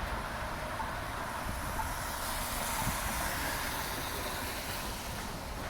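Street traffic in a snowstorm: a steady hiss of tyres on the wet, snowy road that swells as a vehicle passes and then eases off.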